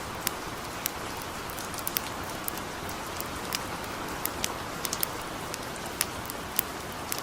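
Steady hiss of light rain, with irregular sharp crackles and pops from a burning campfire scattered through it.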